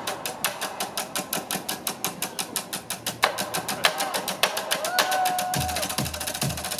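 Live percussion from construction-themed drummers playing on work gear: a fast, even tapping at about seven strikes a second. About five and a half seconds in, deep low beats join the tapping, just after a brief held tone.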